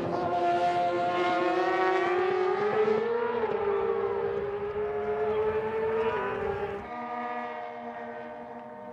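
Racing sportbike engines held at high revs, a high-pitched engine whine that drifts slowly up and down in pitch, with more than one engine note overlapping. About seven seconds in, the sound drops in level and shifts to a different, steadier pitch.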